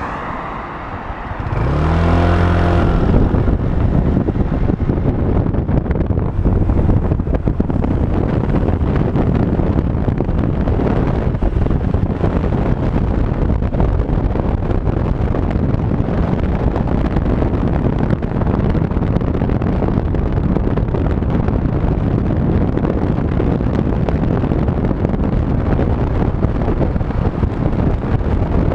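Honda PCX 125 scooter's single-cylinder engine rising in pitch as it pulls away about two seconds in, then steady engine and rushing wind noise while riding.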